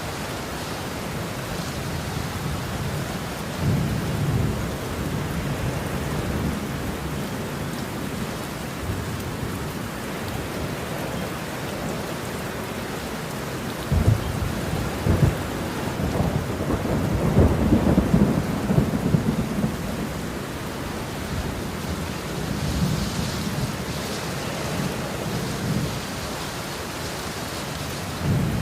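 Steady heavy rain with rolling thunder. A soft rumble comes about four seconds in, and from about halfway through there are a couple of sharp cracks followed by a long, loud rumble.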